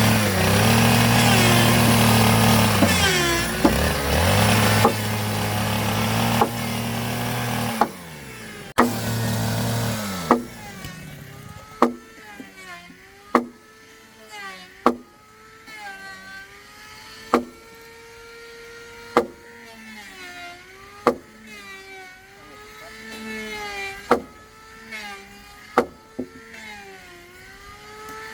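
Power drill boring into wood: the motor runs steadily, slows briefly under load a few seconds in, and stops about ten seconds in. After that come sharp knocks about every one and a half to two seconds, each followed by a squeaky tone that bends up and down.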